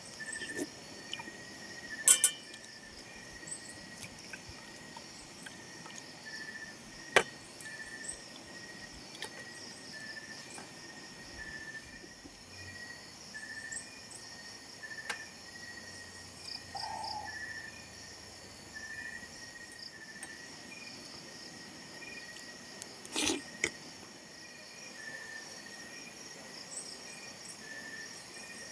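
Insects chirping steadily in a high, pulsing chorus, with a few sharp clicks or knocks from handling something: one about two seconds in, one about seven seconds in, and a double one near the end.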